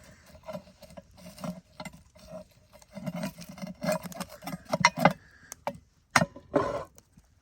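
Irregular clicks, knocks and scrapes of cooking gear being handled as baked potatoes in a cast-iron Dutch oven are checked by squeezing. The sharpest clicks come about five seconds in and near the end.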